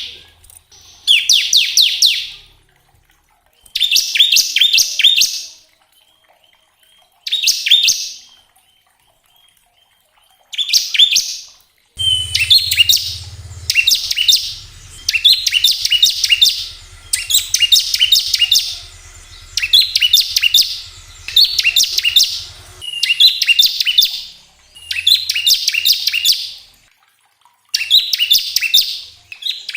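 Bar-winged prinia (ciblek) singing its fast, rattling 'ngebren' trill in repeated bursts of about a second each. The bursts come with long pauses at first, then about every two seconds from midway on.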